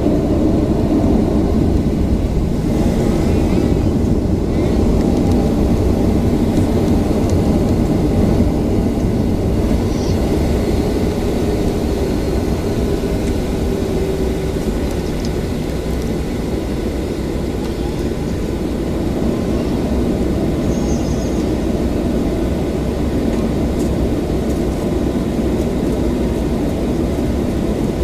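Boeing 737-800 cabin noise: the CFM56-7B jet engines running steadily as a low, even rumble, heard from inside the passenger cabin.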